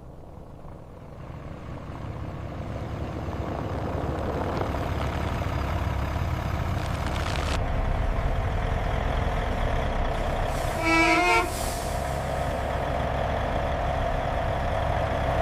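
Heavy truck running with a steady low rumble that grows louder over the first few seconds, with a short horn blast about eleven seconds in.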